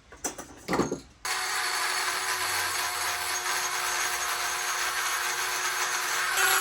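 A few short knocks, then about a second in a power grinder starts and runs steadily at one pitch, grinding out the inside of a new turbocharger housing.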